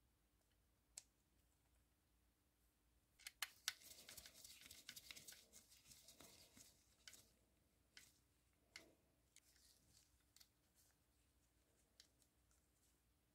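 Faint handling sounds from small parts of a die-cast model car being worked on by hand: a quick cluster of sharp clicks about three seconds in, a few seconds of light scraping and rustling, then scattered single clicks.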